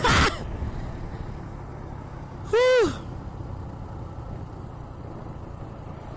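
Motorcycle on the move, a steady low rumble of engine and road throughout. There is a short loud burst at the very start, and about two and a half seconds in a brief vocal whoop that rises and falls in pitch.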